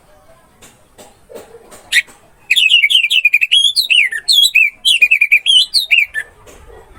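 Orange-headed thrush singing: a sharp click, then about two and a half seconds in a loud, fast run of varied sweeping and warbled whistled notes lasting nearly four seconds.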